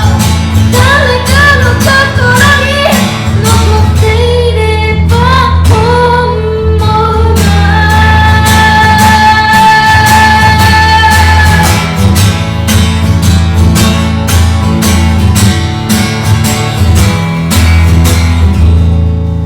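A woman singing with acoustic guitar accompaniment in a live performance. The voice holds one long note from about eight to twelve seconds in, then the guitar carries on strumming alone.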